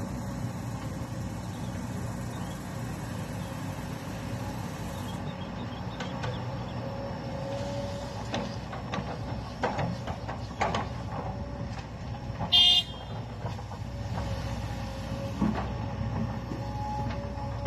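Dump truck engine running steadily, with scattered knocks and clanks and one brief high-pitched horn toot about two-thirds of the way through.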